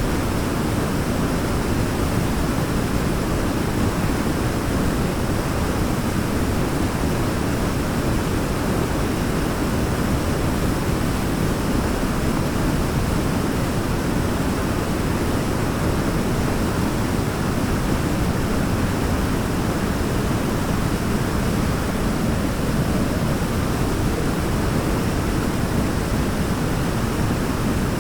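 Waterfall rushing in a steady, even wash of noise, heaviest in the low range, with no change or separate sounds.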